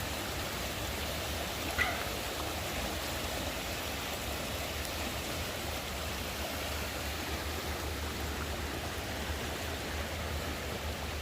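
Creek running high in flood after heavy rain, a steady rush of water, with one brief sharp sound about two seconds in.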